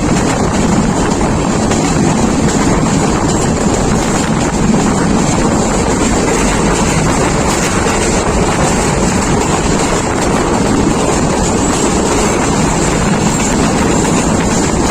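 Jayantika Express intercity train running, heard from on board as a steady, unbroken rumble and rush of noise.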